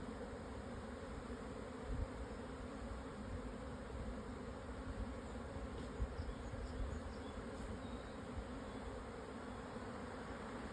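A swarm of Japanese honeybees buzzing: a steady hum of many wings during swarming. Occasional low rumbles can be heard underneath.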